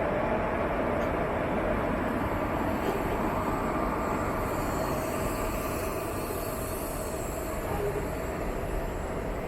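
Railway train running on the tracks: a steady rumble and rail noise that holds even throughout.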